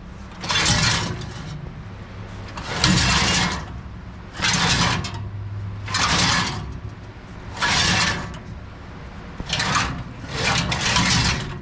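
A tool working the fasteners of replacement pickup teeth on a New Holland 273 baler, in seven noisy bursts of about half a second to a second each, spaced roughly a second and a half apart, over a steady low hum.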